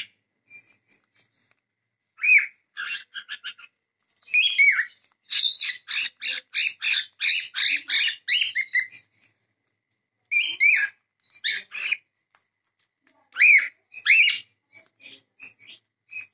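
Cockatiels chirping and calling in bursts of quick, arched notes: a dense run of calls lasting several seconds, then two shorter bursts with brief pauses between.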